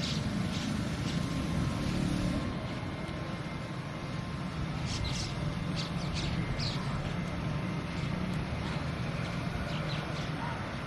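Steady low rumble of traffic, with small birds chirping in brief calls a few times: about half a second in, around the middle, and near the end.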